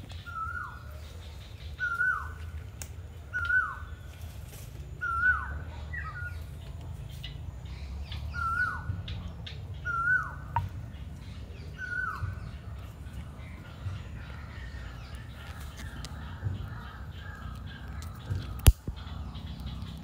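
A bird calling over and over, each a short note that rises and then drops, about once every second and a half, falling silent a little past halfway. Near the end a single sharp knock is the loudest sound.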